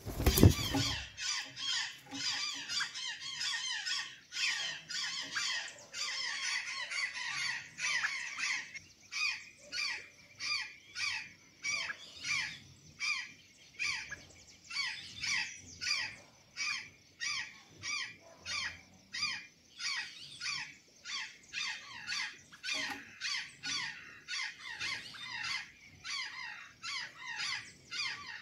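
Azure jay (gralha-azul) giving a long run of short, harsh calls, each falling in pitch. The calls crowd together for the first several seconds, then settle to about two a second. A brief loud knock sounds at the very start.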